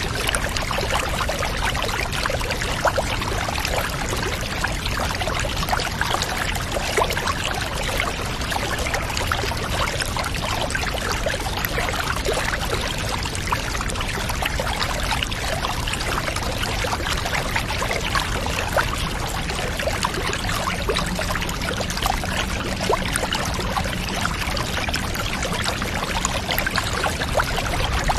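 Water pouring and trickling steadily, as in a bath ambience soundscape, with no breaks or changes.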